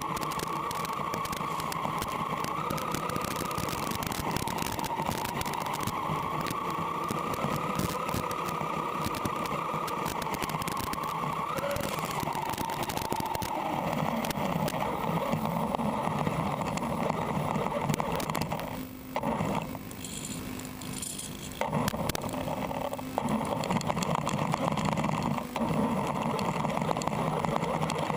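WLtoys A979 RC car with a brushless motor and metal gears, running with a whine whose pitch wavers up and down with speed over constant rattle and crackle. About two-thirds through, the sound drops away briefly before picking up again.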